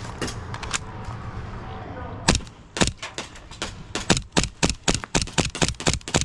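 Airsoft guns firing: a few faint shots, then from about two seconds in a rapid string of sharp cracks at about four or five a second.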